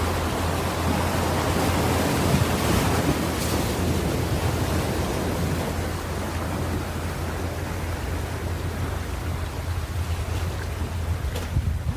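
Ocean surf: a wave breaks and washes in, swelling over the first few seconds and then slowly easing off, over a steady low rumble.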